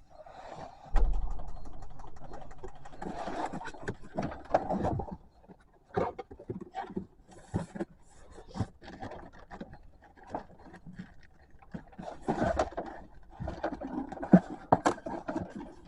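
Irregular scraping, rubbing and clicking of hand work in a V6 engine's open valley while it is cleaned out, with a loud thump about a second in.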